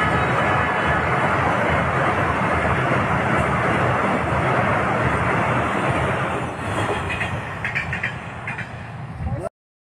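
Train running on the track: a steady rumble that fades and wavers about six seconds in, with a few short clicks, then cuts off abruptly.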